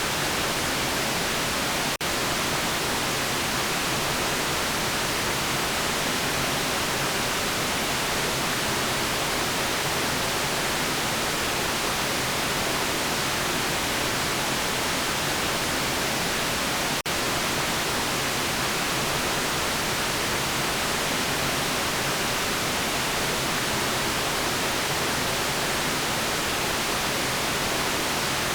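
Steady generated white noise, an even hiss across the whole range, with two momentary dropouts about 2 and 17 seconds in.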